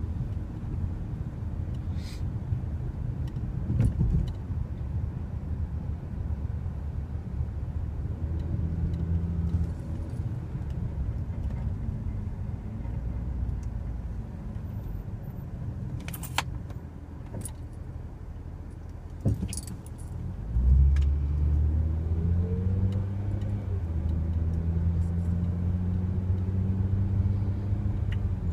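Car engine and road noise heard from inside the cabin while driving on a snowy road, with a few sharp clicks. About two-thirds of the way in the engine gets louder and its pitch rises as the car speeds up.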